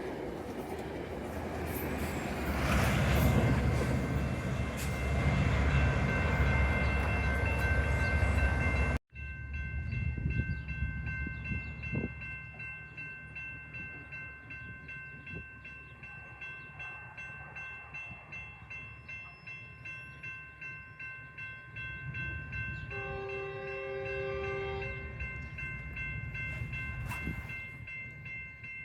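A passing train, first a heavy low rumble, then after an abrupt cut its wheels clicking in a steady rhythm over the rail joints. A train horn sounds briefly about 23 seconds in.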